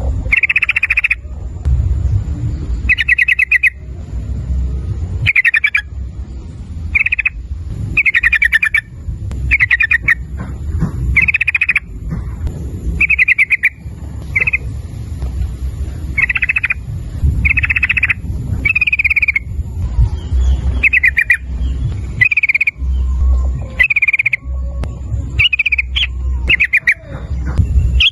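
Sooty-headed bulbul (trucukan) singing: short, bubbly phrases repeated about once a second, over a steady low rumble.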